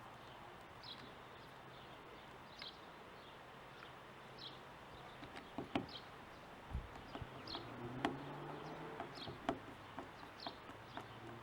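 Faint clicks and light knocks of small metal parts and a screwdriver, from about halfway through, as the float bowl screws are fitted to a motorcycle carburettor. Under them a bird chirps briefly about every two seconds.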